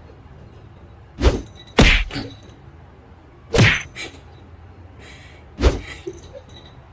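Four dull thumps, the first two close together about a second in, then one in the middle and one near the end, over a faint steady hiss.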